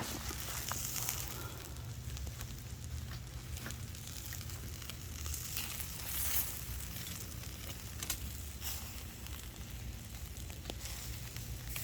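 Burgers sizzling as they cook over a campfire, with the fire crackling in scattered sharp pops. A steady low rumble runs underneath.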